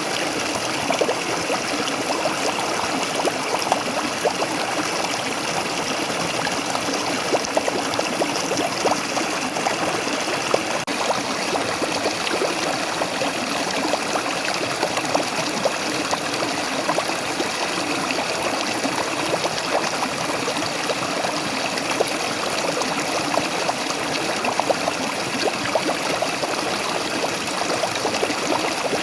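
Waterfall water pouring and splashing steadily, with many small splashes in an even rush of noise.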